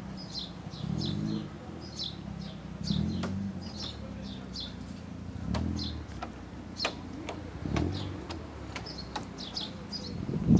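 Small birds chirping over and over in quick runs of short, high calls.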